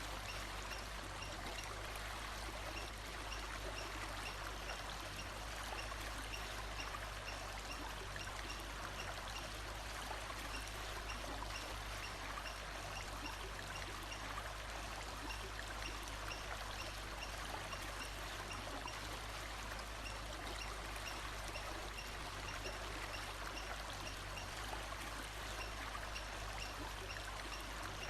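Steady rush of a flowing forest stream, with a faint short high call repeating about once a second over it.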